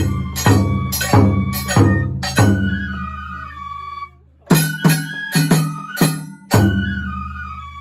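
Japanese festival music (matsuri-bayashi): loud, uneven taiko drum strokes over a bamboo flute melody, with a short break a little past halfway before the drumming picks up again.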